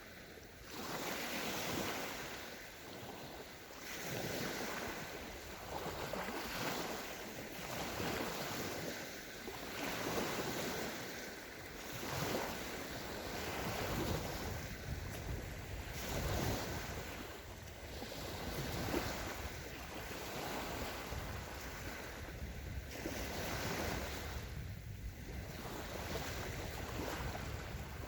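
Small sea waves of the Sea of Azov washing onto a sandy shore, one surge after another every second or two.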